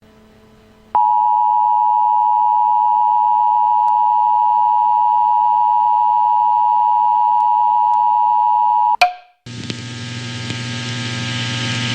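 Emergency broadcast attention signal: a loud, steady two-tone electronic alarm held for about eight seconds. It cuts off abruptly with a click, and a hissing, static-like background follows.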